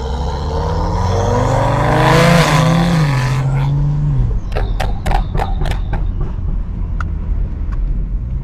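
BMW 335i's N55 turbocharged straight-six accelerating, heard through an exhaust microphone: the exhaust note climbs in pitch for about two seconds, holds with a rush of noise, then falls away as the throttle lifts about four seconds in. A run of sharp clicks follows.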